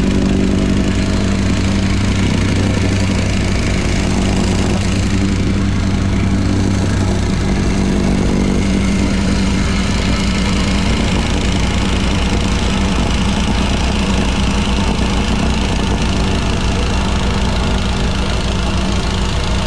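Machine engine running steadily at a constant speed, with no revving or pauses.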